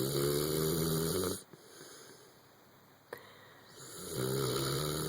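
Sleeping dog snoring: two long pitched snores about four seconds apart, each lasting over a second.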